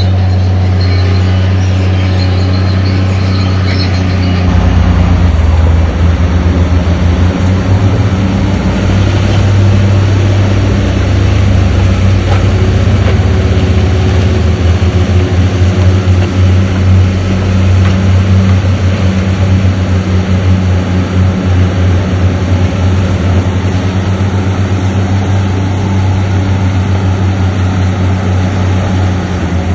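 Heavy diesel engine of an earthmoving machine running with a deep, steady drone. About four seconds in it deepens and grows louder, with a fast pulsing beat.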